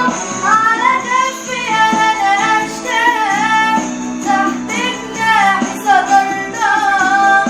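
A woman singing an Arabic Christian hymn in long, gliding melodic phrases over an instrumental backing.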